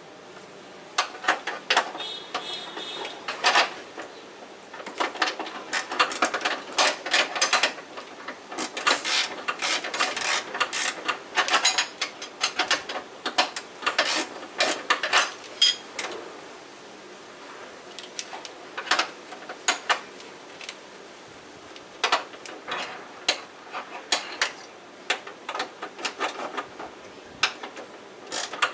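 Metal hand tools clicking and clinking against car engine parts in irregular clusters of sharp clicks, with quieter gaps between, during an engine removal.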